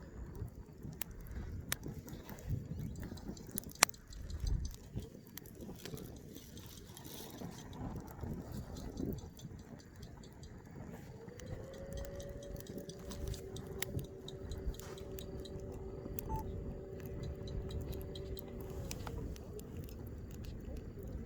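Wood fire crackling, with sharp pops scattered throughout and wind rumbling on the microphone. A steady tone sounds for about eight seconds in the second half.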